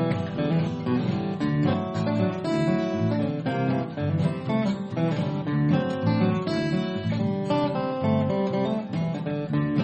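Acoustic guitar playing an instrumental break in a bluegrass tune: quick picked notes over strummed chords, with no singing.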